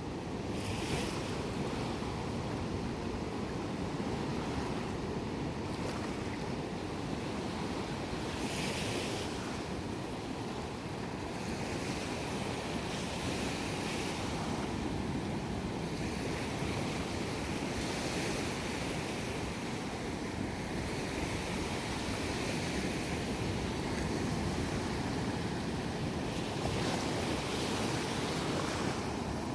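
Sea waves breaking and washing up a beach, swelling every few seconds, with wind buffeting the microphone.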